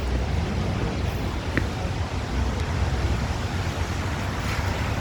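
NYC subway train running with a steady low rumble and roar, with a brief faint squeak about a second and a half in.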